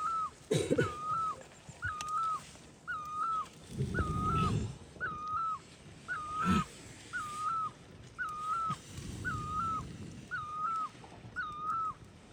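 An animal call, a short whistled note repeated very evenly about once a second, with some rustling and handling noise in between.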